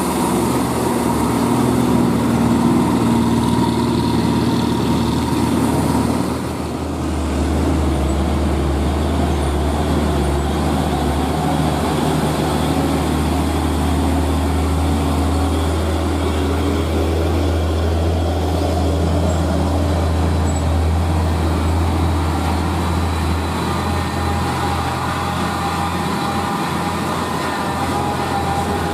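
Heavy diesel truck engine pulling up a steep grade. About six seconds in the sound dips briefly, and the engine note then settles lower and holds steady.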